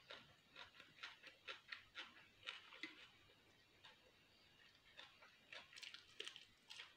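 Faint close-miked chewing: soft wet mouth clicks and smacks, in a quick run over the first three seconds and again near the end, when a piece of raw onion is bitten.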